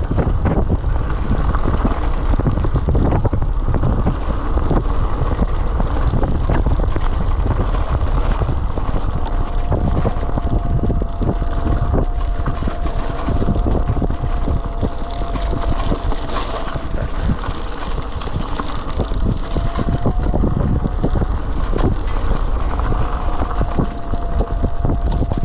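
Wind buffeting the microphone and road rumble while riding a Kugoo Kirin V3 Pro Plus electric bike, with frequent small rattles and knocks. From about ten seconds in, a thin steady whine comes and goes.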